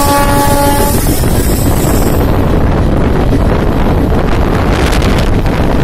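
Wind buffeting the microphone at the open door of a passenger train coach running at speed, over the steady rumble of its wheels on the track. A steady, horn-like pitched tone cuts off about a second in.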